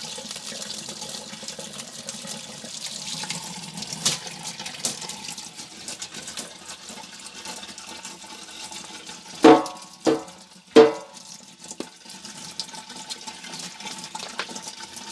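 Tap water running steadily while a vacuum cleaner part is rinsed under it. About two-thirds of the way in come three sharp knocks with a short ring, a little over half a second apart.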